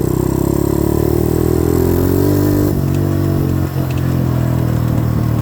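90cc dirt bike engine running under way. It rises a little in pitch, drops lower about halfway through, dips briefly in loudness a second later, then runs steadily.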